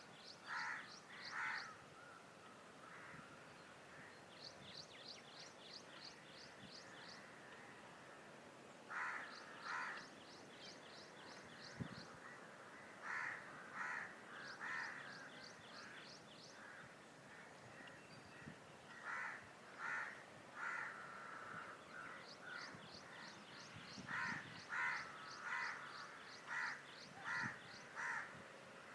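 Harsh bird calls repeated in short series of two to six, loudest near the end. Between them come quick trains of high ticking notes, about ten a second.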